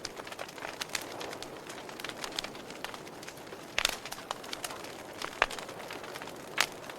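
Wood fire burning in a fireplace: a steady hiss with irregular crackles and sharp pops, a few louder ones through the middle and near the end.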